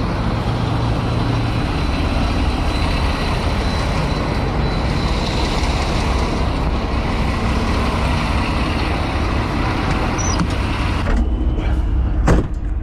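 Semi-truck running, with steady engine and outdoor noise. Near the end the noise changes suddenly and a single sharp thump sounds.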